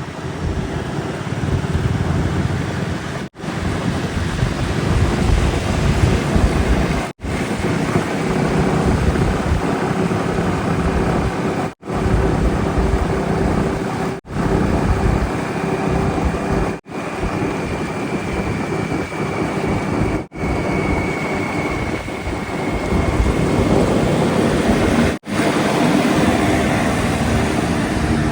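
Diesel engines of heavy earthmoving machinery and trucks running, with a deep, noisy rumble under them. The sound comes as a string of short clips that cut off abruptly every few seconds.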